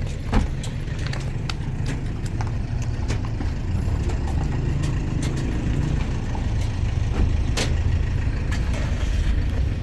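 Steady low rumble of a running motor vehicle engine, with scattered clicks and knocks over it and one sharp knock just under half a second in.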